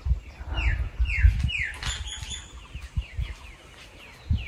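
Birds calling: runs of short, quick notes that each slide downward, repeated several times, over low irregular rumbles and thuds.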